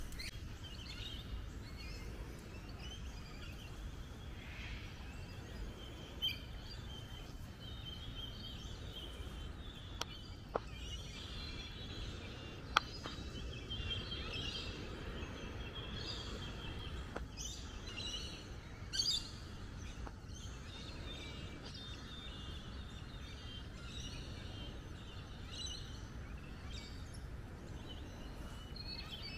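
Birds chirping and calling over a steady low background rumble, with a few sharp clicks scattered through.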